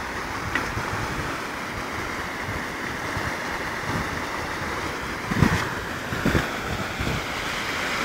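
Steady rushing of floodwater, with wind buffeting the microphone in two low thumps a little over five and six seconds in.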